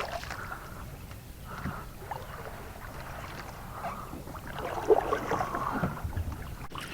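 Quiet water and handling sounds in a kayak, with a short cluster of splashes and knocks about five seconds in and a sharp click near the end.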